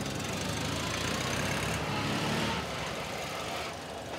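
Small Fiat 126p cars with air-cooled two-cylinder engines running as they drive slowly past close by. The nearest car's engine is loud and steady, then fades about two and a half seconds in.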